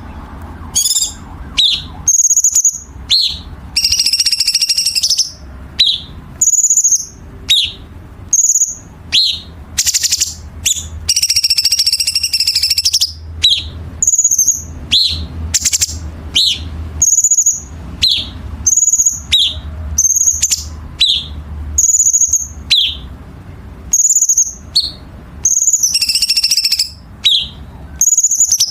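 Cucak cungkok singing: short, sharp, high whistled notes repeated about once a second, broken three times by longer harsh, raspy phrases. The harsh phrases are the rough 'kasaran' filler and the sharp notes the 'tembakan' shots prized in tutoring recordings for competition birds. A low steady hum runs underneath.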